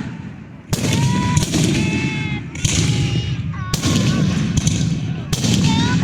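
Fireworks going off: a string of about six loud bangs over a continuous crackle, with short shrill pitched tones between the bangs.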